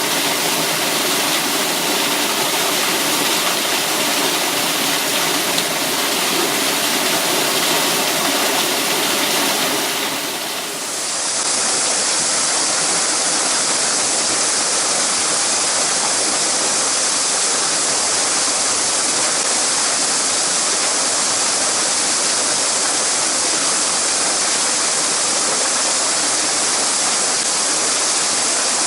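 Mountain stream water rushing and splashing over rocks, a steady dense noise. It dips briefly about eleven seconds in, then carries on with more high hiss.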